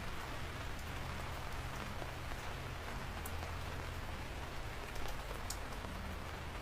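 Steady rain falling, with a few separate sharp taps of single drops standing out.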